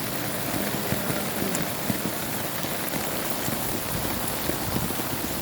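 Heavy rain pouring down, a steady dense hiss of rain on surfaces with scattered drops ticking through it.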